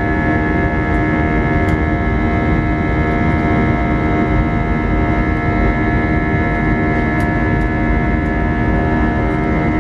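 Airbus A320 cabin noise in flight: a steady rumble of engines and airflow with several steady whining engine tones over it.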